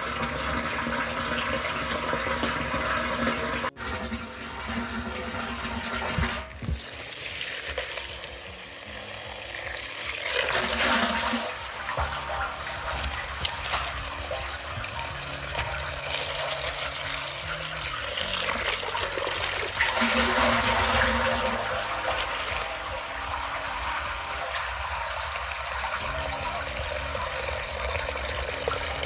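Running, splashing water, a steady rush that swells twice and breaks off abruptly a couple of times where shots change.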